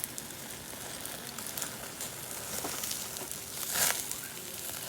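Chicken sizzling as it cooks, a steady hiss with scattered crackles and a louder burst of sizzle about four seconds in.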